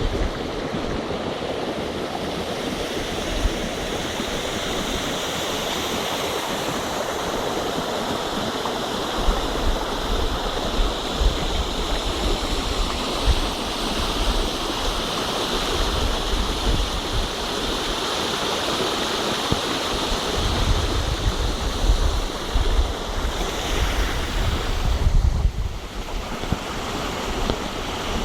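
Steady rushing of water at the beach after a storm, with wind buffeting the microphone in gusts that are heaviest about three quarters of the way through.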